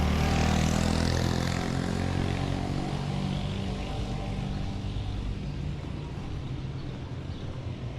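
A motor vehicle's engine running, loudest at the start and fading steadily as it moves away.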